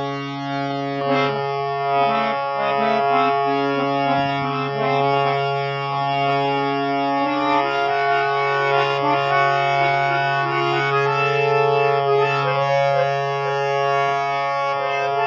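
An old full-size Kasriel Paris harmonium being played: a steady low drone note held throughout under a melody of sustained reed notes that change every second or so.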